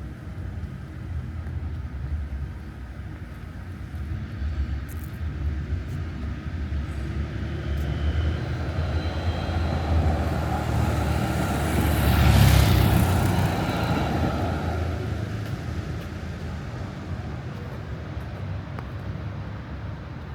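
A road vehicle passes close by over steady low traffic rumble: its noise builds for several seconds, peaks about twelve seconds in, then fades away.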